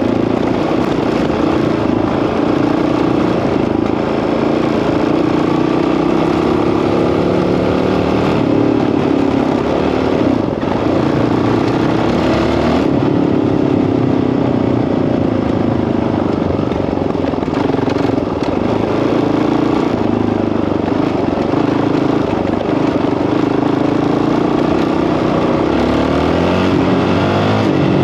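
Honda CRF dirt bike's single-cylinder four-stroke engine running under way, its pitch rising and falling as the throttle is worked.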